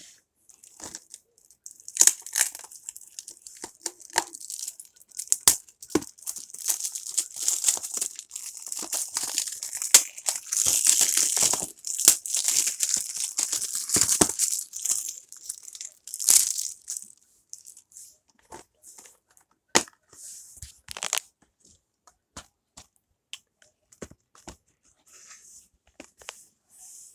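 Plastic wrapping on a Blu-ray case being torn and crinkled off, with many sharp clicks and crackles as it is handled. The tearing and crinkling is densest and loudest in the middle, then thins out to scattered clicks.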